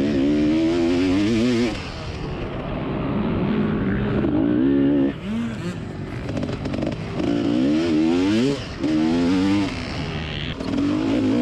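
KTM 300 EXC two-stroke single-cylinder enduro motorcycle being ridden, its engine revving up and dropping back again and again in surges of a second or two as the throttle is opened and closed.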